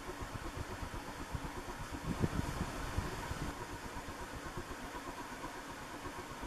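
1980s Nadair Spinner 120 cm (48-inch) ceiling fan running on medium speed, about 125 RPM: a steady air whoosh from its four blades with a faint motor hum. There is a brief louder bump a little over two seconds in.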